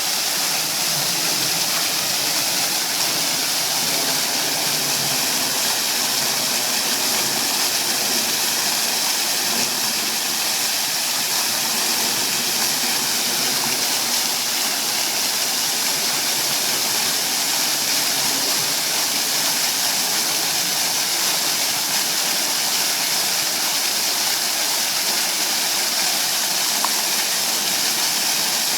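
Water fountain splashing: a steady rush of falling water, bright and even throughout.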